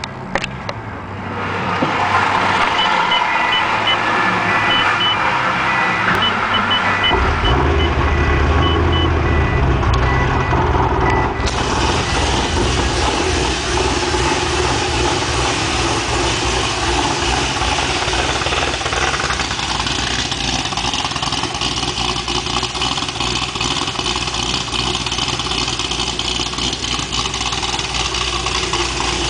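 Freshly built 427-cubic-inch Warhawk V8 with a custom cam, unsupercharged, started for the first time. It cranks for several seconds while a high electronic beep sounds on and off, catches about seven seconds in, and then runs steadily.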